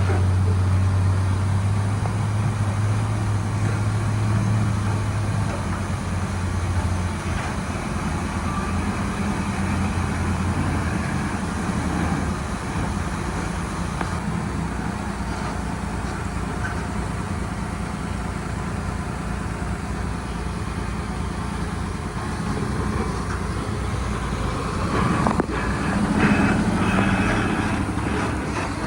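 Heavy diesel engine of earthmoving machinery running steadily, with a strong low hum that eases off after about six seconds and a brief rise in machine noise near the end.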